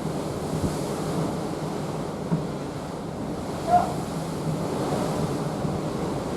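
Open sea rushing and washing along the hull of a moving cruise ship, a steady noise with wind buffeting the microphone. A short pitched sound stands out briefly about four seconds in.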